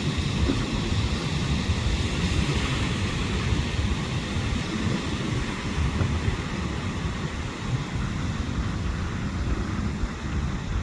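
Steady rushing noise with a heavy, fluttering low rumble, typical of wind buffeting the microphone outdoors.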